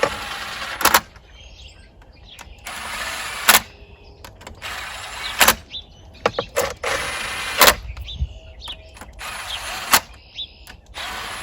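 Hand wrench working the cylinder head bolts on an outboard powerhead. There are repeated rasping strokes of about a second each, and most of them end in a sharp metallic click, five or six times over.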